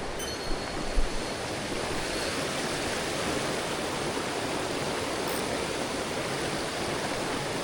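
Mountain headwater stream flowing steadily, an even rush of water, with one short low thump about a second in.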